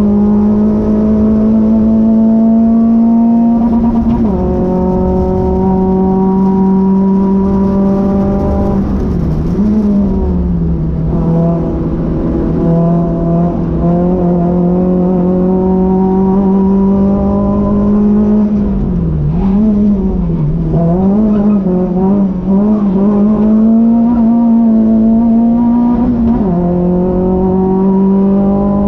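Renault Clio 182's 2.0-litre four-cylinder engine heard from inside the cabin under hard track driving. The engine note climbs steadily in each gear and falls sharply about four seconds in and again near the end as the car shifts up. Around ten seconds in and again from about nineteen to twenty-three seconds the pitch dips and wavers as the car slows and gears down for corners, over a steady low rumble of road and wind noise.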